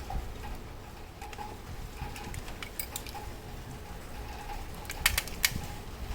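Small sharp mechanical clicks from handling a grandfather clock movement, sparse at first, then a quick cluster of three or four louder clicks about five seconds in.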